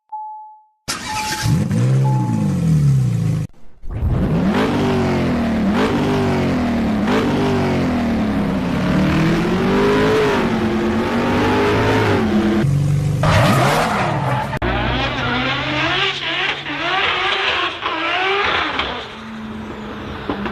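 Modified car engines revving hard, several short clips cut together: the engine note climbs and drops again and again, about once a second through the middle stretch, with a steadier engine note near the end.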